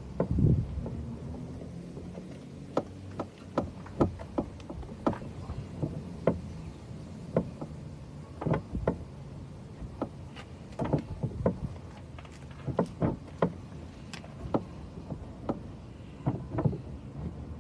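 Irregular sharp taps and knocks, roughly one or two a second, over a steady low hum.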